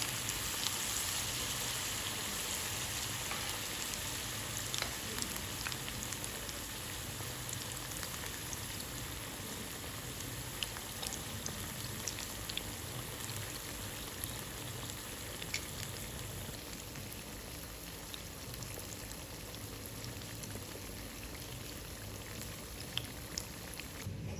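Food frying in hot oil in a pan: a steady sizzle with scattered sharp pops and crackles, which cuts off suddenly near the end.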